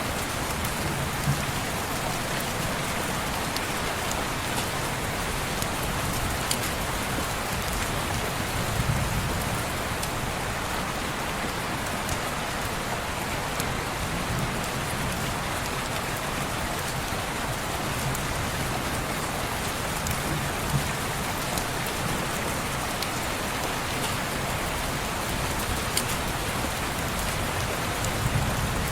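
Steady rain falling on a window, an even hiss with scattered sharp ticks. A soft low rumble swells every few seconds.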